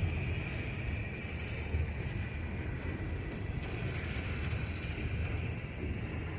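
Train moving slowly past: a steady low rumble with a faint, even high whine above it.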